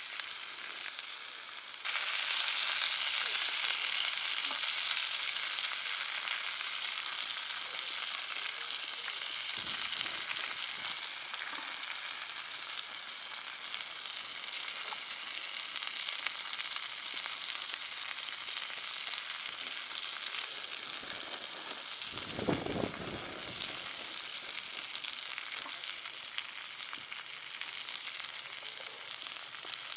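Meat sizzling on a hot cast-iron jingisukan grill pan over a wood fire, a steady crackling hiss that jumps suddenly louder about two seconds in. A low thud sounds about two-thirds of the way through.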